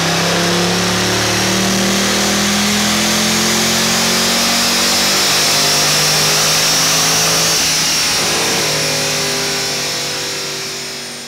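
Tuned Mercedes-Benz C63 AMG engine running under load on a chassis dyno, its note climbing over the first few seconds, dropping back about five seconds in and holding steady, then fading out near the end.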